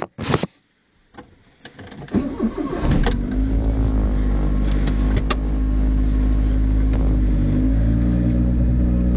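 Seat Ibiza 1.2i's three-cylinder petrol engine being started through an aftermarket Porsche-style exhaust system: a short sharp sound at the very start, a few clicks, then the engine catches about three seconds in and settles into a steady idle.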